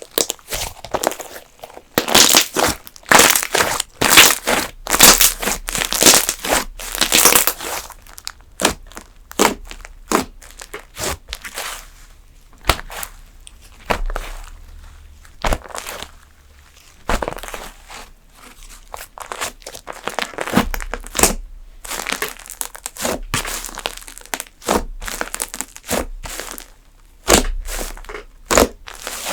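Slime being squeezed, pressed and kneaded by hand, giving irregular runs of crackling, crinkly pops. The crackling is densest and loudest for a few seconds near the start, then comes in sparser spells.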